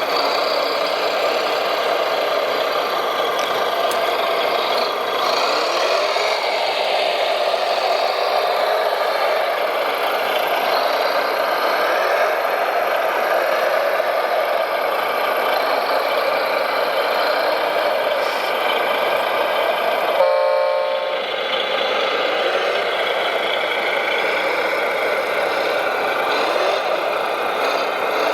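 Radio-controlled model trucks running, a steady mix of small motor and gear whine with little low end. About twenty seconds in the sound breaks off suddenly and a short horn-like toot sounds before the running resumes.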